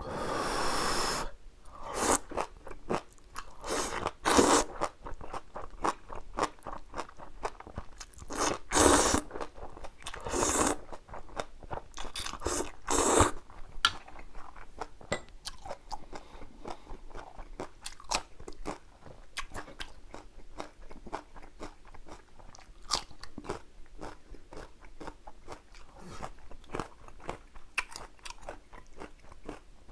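Close-miked eating of spicy jjapagetti noodles and kimchi: crunchy bites and steady chewing, with several louder mouthfuls in the first half.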